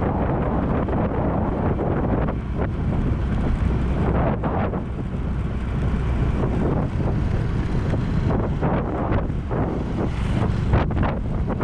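Wind buffeting a GoPro action camera's microphone during a ride at speed: a steady rush strongest in the low end, with vehicle noise beneath it.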